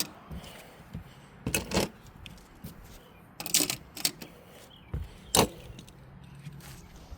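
Toy monster trucks being handled and set down, giving a few short, sharp clicks and clatters: a pair about one and a half seconds in, more around three and a half to four seconds, and one near five and a half seconds.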